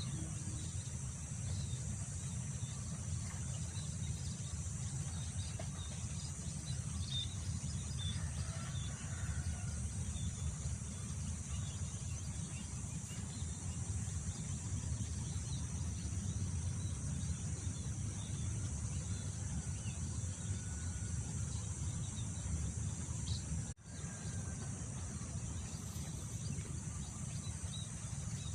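Wind rumbling on the microphone under a steady high trill of insects, with scattered faint bird chirps. The whole soundscape drops out for a moment about 24 seconds in.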